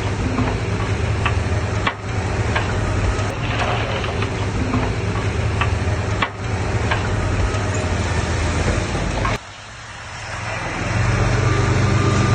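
Heavy diesel engine running steadily. Its sound drops away suddenly about nine seconds in, then builds back up over the next second or two.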